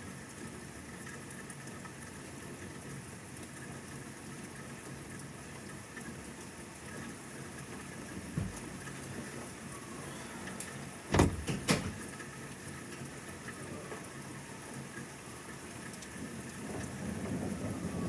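Steady rain falling during a thunderstorm, with a short thump about halfway through and a few loud sharp cracks a little later. A low rumble of thunder builds near the end.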